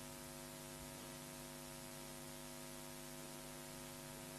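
Low, steady electrical mains hum of several held tones over a faint hiss from the recording or sound system.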